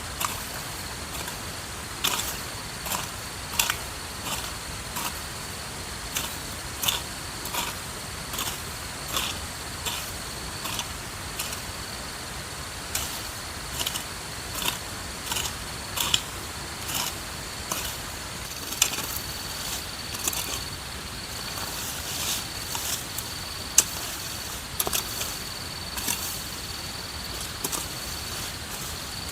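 A long series of sharp knocks or strikes, roughly one every 0.7 seconds and uneven in strength, over a steady high-pitched whine.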